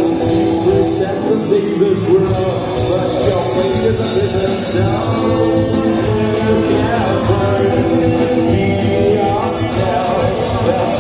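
Live rock band playing a song with singing, drums, guitar and bass.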